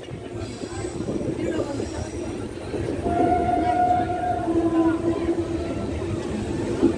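Passenger train coach running on the track, a steady rumble of wheels and rails heard through an open doorway. About three seconds in a brief steady high tone rises over the rumble, followed by a lower one a second later.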